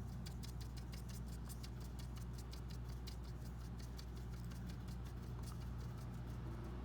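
Rapid, irregular tapping of a drawing tool's tip on paper, several taps a second, as colour is stippled on in dots. A steady low hum runs underneath.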